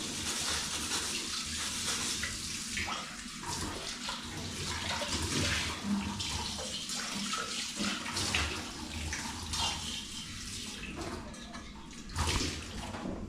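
Water running from a tap into a sink while dishes are washed up, with a few short knocks of dishware.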